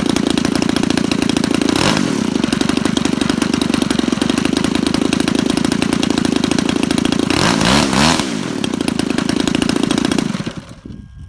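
DLE 30cc single-cylinder two-stroke petrol engine on a model aeroplane running at idle, with a short throttle blip about two seconds in and a rev up and back down near eight seconds, then shut off about ten seconds in.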